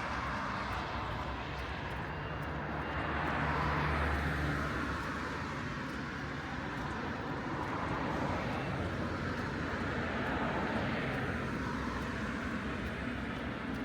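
City street traffic: several cars passing one after another, their engine and tyre noise swelling and fading, loudest about four seconds in.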